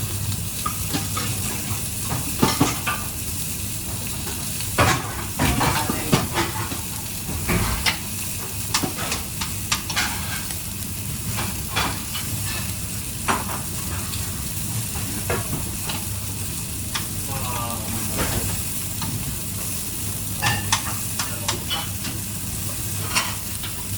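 Food frying in a pan with a steady high sizzle, while a utensil is stirred and knocked against the pan in scattered sharp clicks and scrapes.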